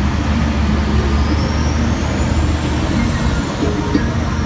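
Tour tram in motion, a steady low engine and road rumble, with a faint high whine rising and falling about halfway through.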